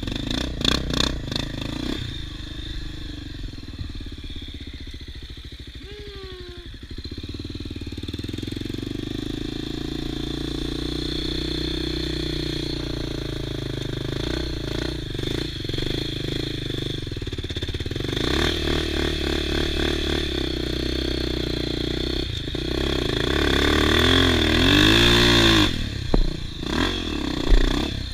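Off-road trail motorcycle engine running under changing throttle, its pitch rising and falling as the rider works through the trail, with a stretch of hard revving near the end. Sharp knocks and clatter come through now and then.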